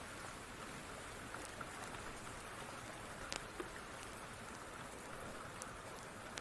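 Steady rain mixed with the scattered pops and crackles of a wood fire, a louder pop about three seconds in.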